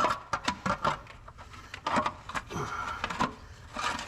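Clanks, knocks and scrapes of a metal valve cover being worked loose and lifted off an old truck engine, a string of sharp hits with short scraping stretches between them.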